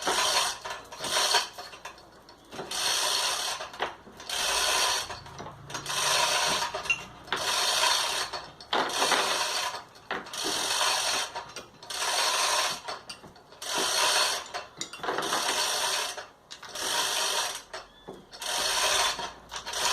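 Hand-operated hoist ratcheting in repeated strokes, about one every second and a bit, each a burst of rapid clicks, as it lifts a car gearbox out from above.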